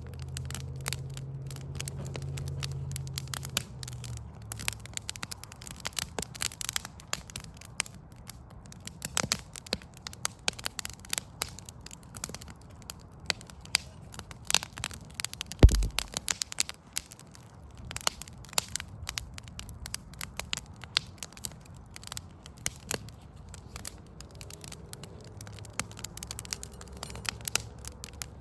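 Wood fire burning, crackling with dense, irregular pops, and one much louder pop about sixteen seconds in. A low hum sits underneath in the first few seconds and again near the end.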